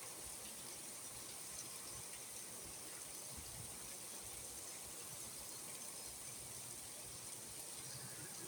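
Rainstorm: heavy rain falling, a steady even hiss.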